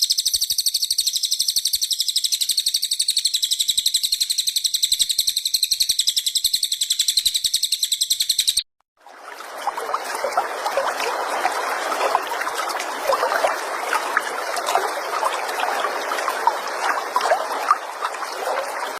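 Recorded songbird calls used as tutor song for training cage birds. First comes a very fast, steady, high-pitched trill; it cuts off abruptly about 8.5 s in. After a brief gap, a dense chatter of many overlapping short chirps, lower in pitch, takes over.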